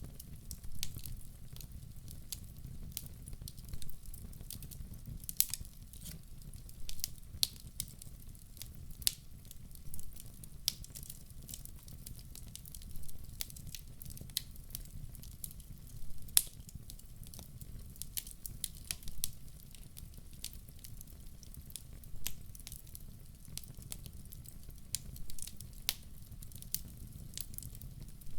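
Wood fire crackling in a fireplace: irregular sharp pops and snaps, one or two a second, over a steady low rumble of the flames.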